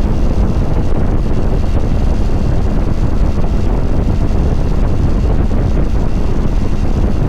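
Kawasaki Vulcan 900 Classic LT's V-twin engine running steadily at cruise, heard under heavy wind rumble on the microphone.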